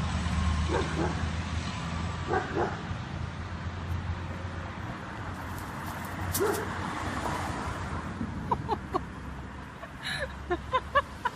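A dog yipping and whimpering in short, high calls, a few spread out at first and then a quick run of them near the end, over a steady low hum.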